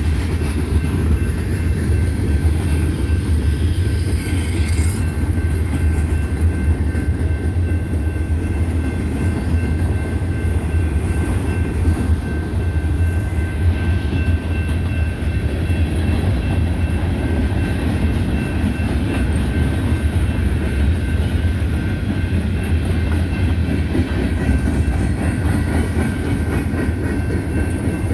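Freight train cars rolling past: a loud, steady rumble of steel wheels on the rails, with the clickety-clack of the wheels and a faint, steady high-pitched ringing above it.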